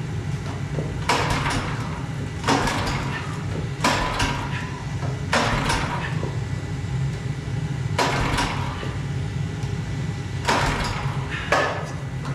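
Pressure washer engine's recoil starter pulled by hand about seven times, each pull a short rasp of the rope, without the engine catching. A steady low hum runs underneath.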